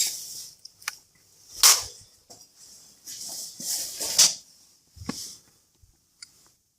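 Plastic filter cap of a washing machine's drain filter being fitted and screwed back into its housing: short scrapes of plastic rubbing on plastic, with a few sharp clicks.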